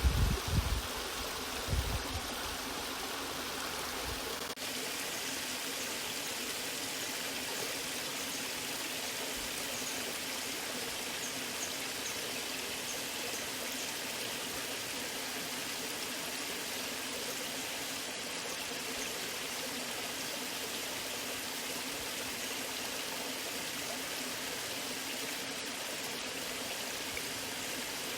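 Waterfall: a steady rush of falling and flowing water. A few heavy low thumps sound in the first seconds, then stop abruptly, leaving only the even rush.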